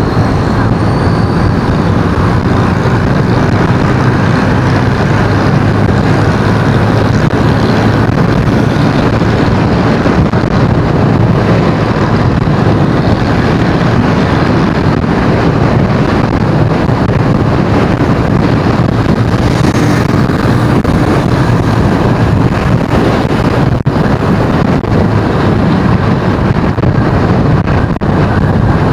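Steady engine and road noise of a vehicle driving through city streets, a loud unbroken low rumble.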